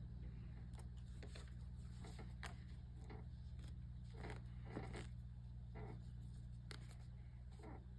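Faint, irregular rustles and light clicks of a knitted sock and yarn being handled during hand sewing, over a steady low electrical hum.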